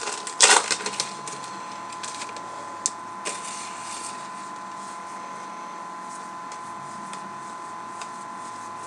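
Baseball trading cards being handled and flipped: a few quick flicks and rustles in the first second or so, then only a couple of soft ticks over a steady faint background with a thin high hum.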